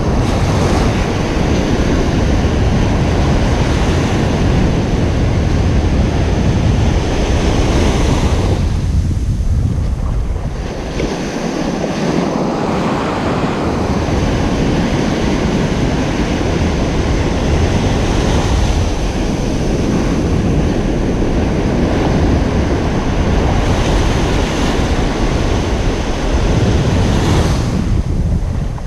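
Ocean surf breaking and washing ashore in a steady, continuous rush, with low wind rumble on the microphone. It eases briefly about a third of the way through.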